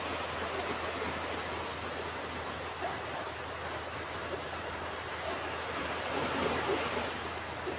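Ocean waves washing onto a beach: a steady rushing of surf that swells slightly near the end.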